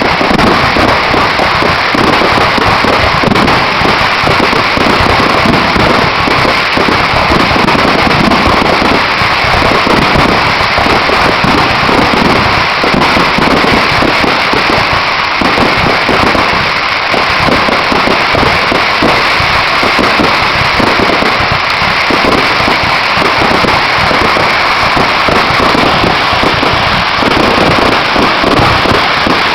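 Fireworks going off in a continuous, dense barrage of bangs and crackling, loud and without a break.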